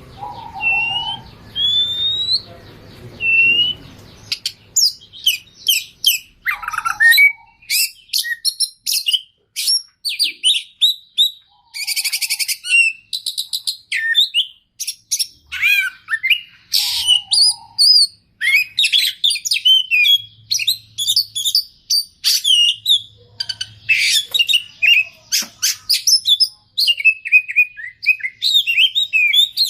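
Oriental magpie-robin (kacer) singing: a few slow rising whistles, then from about four seconds in a fast, unbroken run of varied whistles, trills and harsh buzzy notes, packed with phrases mimicked from other birds.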